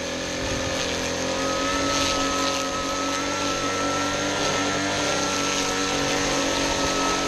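Small gasoline engine of lawn-care equipment running steadily at a constant speed, with a steady high whine above the engine note.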